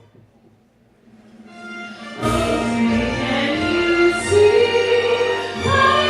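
Soft sustained musical accompaniment, then about two seconds in a woman's singing voice and fuller backing come in loudly: the start of a sung performance of the national anthem.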